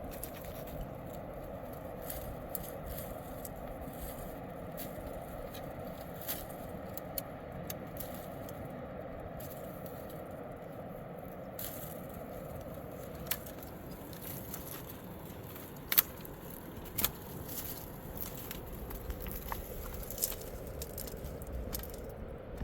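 A steady rushing noise under scattered sharp clicks and scrapes, the loudest a few clicks about two-thirds of the way through.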